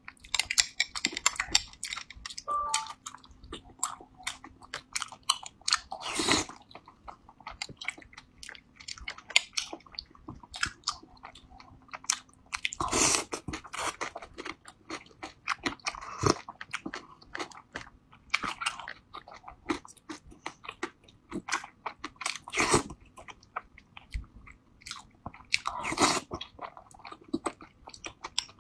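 A person eating a grass jelly dessert with chewy taro balls and red beans in coconut milk: wet chewing and mouth sounds made up of many small clicks, with a few louder moments spread through as spoonfuls go in.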